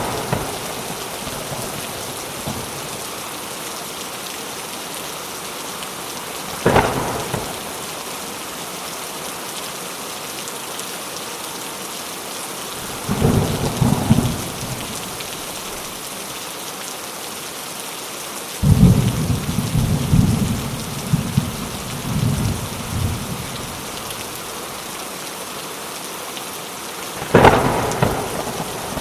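Steady rain with thunder: a sharp crack, then a short low rumble, a longer rolling rumble, and another sharp crack near the end.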